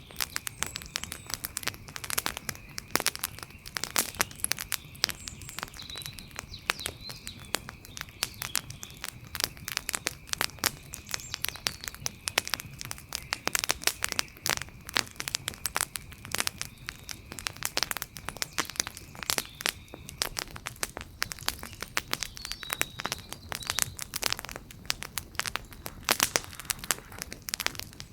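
Wood fire crackling, with dense irregular pops and snaps over a low steady hiss. A faint steady high whine runs under it until about two-thirds of the way through.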